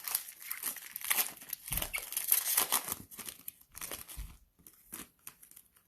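Cellophane wrapper of a Mosaic trading-card cello pack being torn open and crinkled, an irregular crackling rustle.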